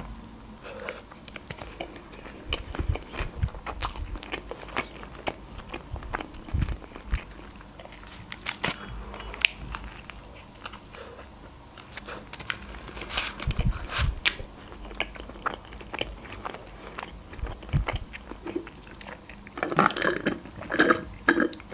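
Close-up biting and chewing of a KFC Boxmaster tortilla wrap with crispy fried chicken: wet mouth sounds with many small crunches and clicks. Near the end, a sip of cola drawn through a straw.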